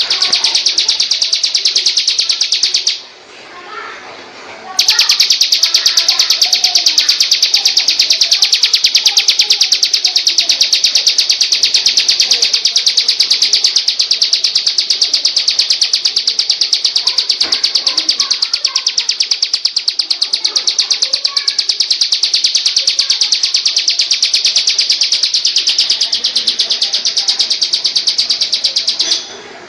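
Small songbird's high-pitched trill in a fast, even run of notes, breaking off briefly about three seconds in and again near the end, with fainter, lower chirps underneath.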